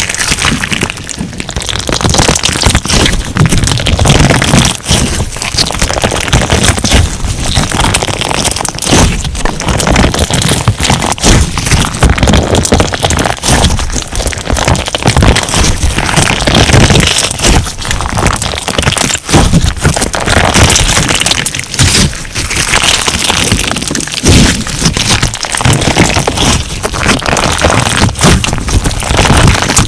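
Crunch slime being squeezed and pressed by hand, with dense, continuous crackling and popping as the crunchy pieces in it break and the slime squishes.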